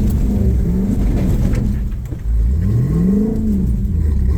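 Off-road vehicle's engine revving up and dropping back several times while picking its way over rocks, with the biggest rise and fall about three seconds in.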